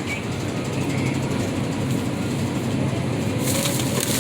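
Steady mechanical rattling and rumble, with crackling handling noise starting about three and a half seconds in.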